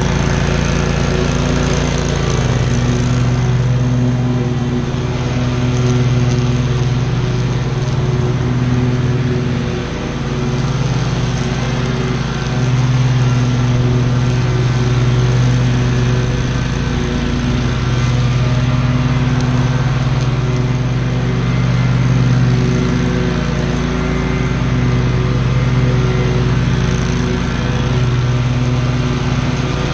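Commercial walk-behind-class mower engine running steadily at full throttle while cutting tall grass, its low engine note swelling and easing every few seconds as the load changes.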